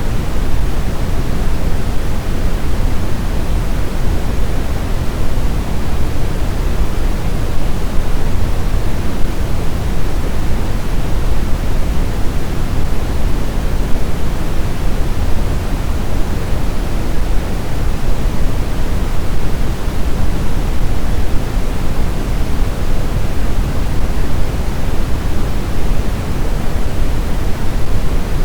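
Steady, deep rushing noise of blizzard wind, heaviest in the low end and even throughout, with no gusts, whistles or howls.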